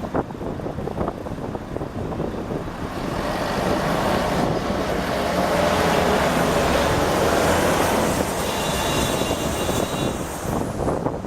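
A police car driving past without its siren: the rush of its tyres and engine swells to a peak midway and then fades, with wind on the microphone.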